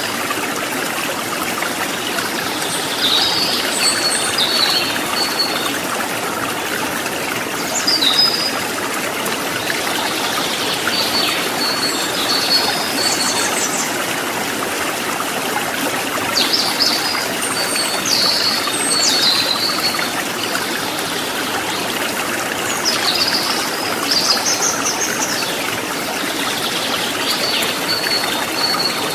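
Stream water gurgling and trickling steadily, with a small bird giving short, high chirps and trills every few seconds.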